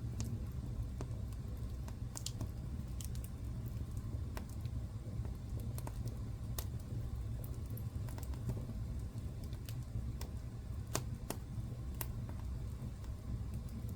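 Wood fire burning in a fireplace: irregular sharp crackles and pops, a few a second at most, over a steady low rumble of the flames.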